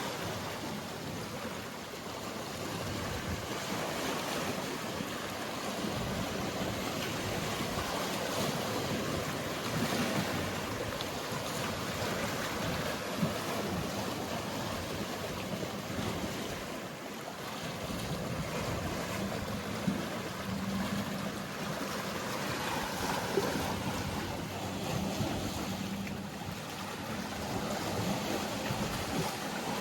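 Mediterranean sea waves washing steadily against the shore. From about two-thirds of the way in, a faint low, steady hum from a distant boat engine runs underneath.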